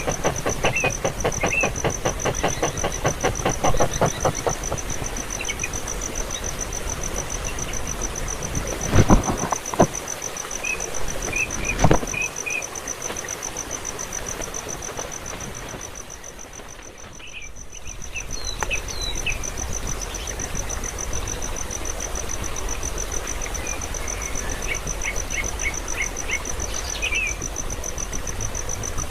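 An insect trilling a steady, rapidly pulsing high note throughout, over a noisy hiss. Short high bird chirps come in small groups a few times, and there are two loud knocks about nine and twelve seconds in.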